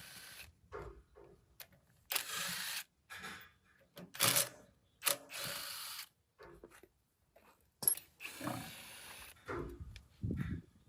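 Intermittent hand work on metal machine parts: about eight short scraping or rubbing strokes, each half a second to a second long, with a few sharp clicks between them.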